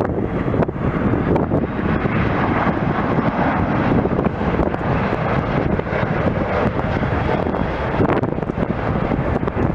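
Jet airliner passing overhead, its engines making a steady rushing noise, with wind buffeting the microphone.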